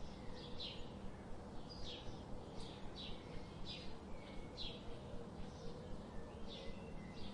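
A bird calling repeatedly, short high chirps that drop in pitch, coming roughly once a second at an uneven pace, over a steady low background rumble.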